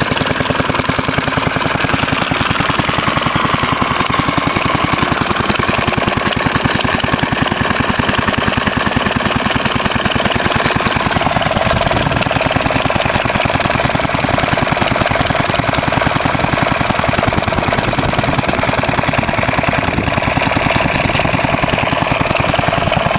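Fairbanks Morse Z style D single-cylinder engine running steadily, a fast, even exhaust beat.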